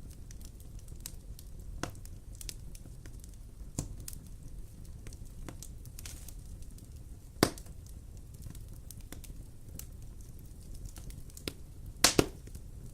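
Wood fire burning in a fireplace: a steady low rumble of flames with scattered small crackles, a loud pop about halfway through and a quick double pop near the end.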